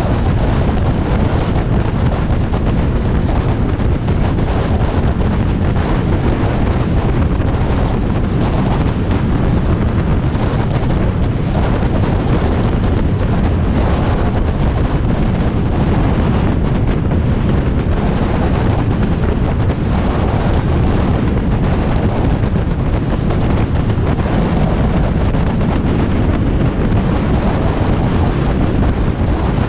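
Steady wind rushing over the microphone of a motorcycle at cruising speed, over the low running of the Harley-Davidson Iron 1200's V-twin engine.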